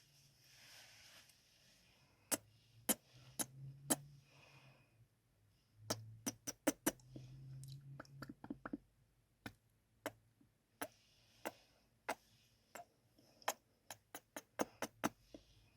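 Close-miked kissing sounds: sharp lip smacks, some spaced about half a second apart and some in quick runs of five or six, with soft breathing between them.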